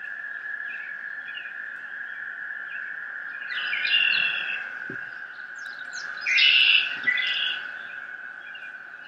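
Birds chirping over a steady high-pitched tone, with two louder bursts of chirping about four and six and a half seconds in.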